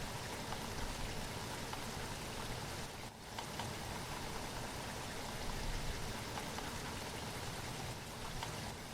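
Steady rainfall, an even hiss with scattered ticks of single drops, dipping briefly about three seconds in.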